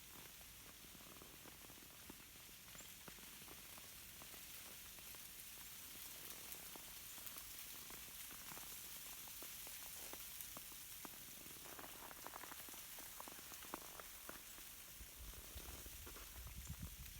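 Ice-coated tree branches swaying in a light breeze, the ice on them cracking in many faint, scattered ticks and crackles.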